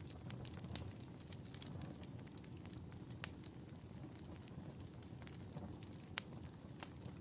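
Wood fire crackling in a fireplace: a low, steady rumble of flames with frequent small ticks and a few sharper pops, the loudest about three seconds in and another about six seconds in.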